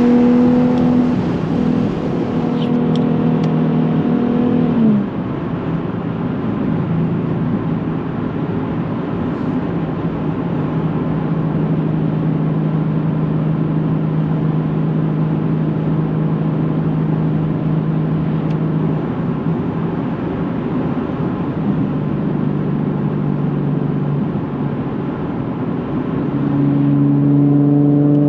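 Nissan 370Z's 3.7-litre V6 through a Tomei titanium catback exhaust while driving. It runs at a steady higher pitch, drops sharply about five seconds in, holds a steady lower drone for most of the stretch, then picks up and gets louder near the end.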